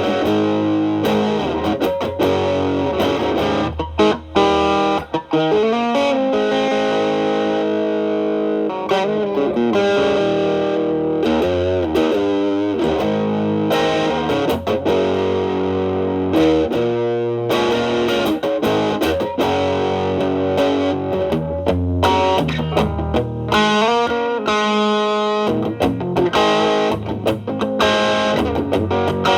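Electric guitar, a Telecaster with single-coil pickups, played through an MXR Distortion+ stacked with a Boss SD-1 into a Marshall Valvestate amp's clean channel. The guitar's volume is rolled back so the stacked distortion cleans up to a lighter, crunchy tone, with a steady run of picked notes and chords.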